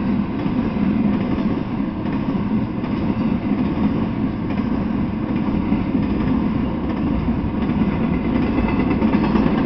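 Intermodal freight train of trailers on flatcars rolling past: a steady rumble of steel wheels on the rails.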